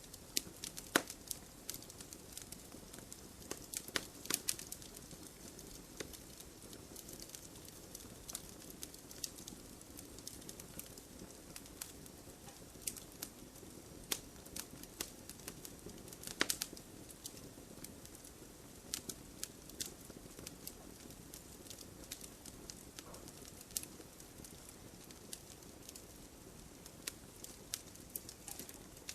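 Wood fire in an open fireplace burning with irregular sharp crackles and pops over a soft steady hiss.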